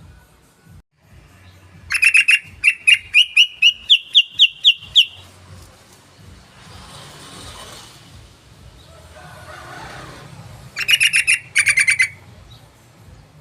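Yellow-vented bulbul (trucukan) singing: a fast run of about a dozen loud chirping notes that climb slightly in pitch, then a second, shorter burst near the end.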